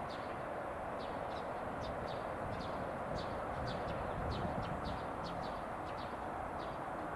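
Small birds chirping, a quick run of short, high, falling chirps repeated several times a second, over a steady background rumble of the distant electric train and surroundings.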